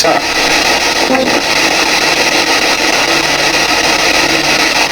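P-SB7 spirit box sweeping through radio stations: a loud, steady hiss of static.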